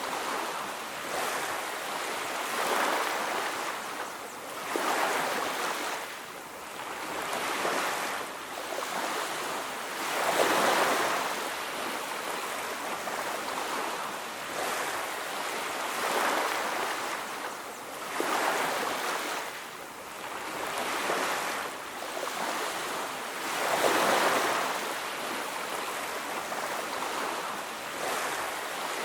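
Ocean surf washing onto a beach: a steady rushing noise that swells and ebbs every few seconds as waves come in.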